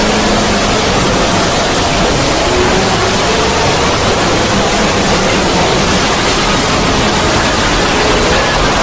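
A 'void' sound effect: a loud, steady wash of noise spread evenly from deep rumble to high hiss, with a few faint short tones drifting through it.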